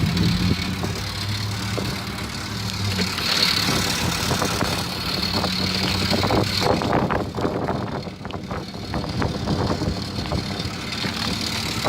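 Pickup truck driving with a salt spreader running, heard from the open bed: steady engine hum and road noise. About halfway through the hiss drops off and knocks and rattles come through.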